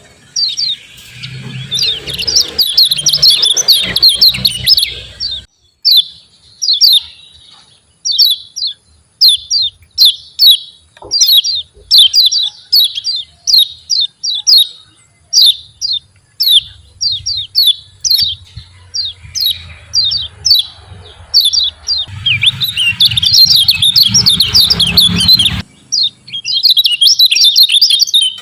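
Kecial kuning white-eye singing its 'ciak ciak' call: a long series of short, sharp, falling chirps, about two a second, broken by dense rapid runs near the start and again about three quarters of the way through.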